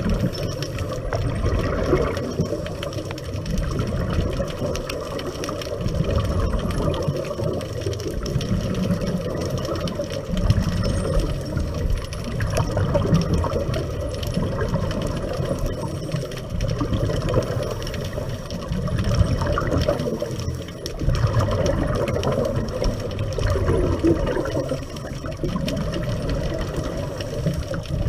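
Muffled underwater noise on a scuba dive: a steady low rushing of water that swells and eases every few seconds.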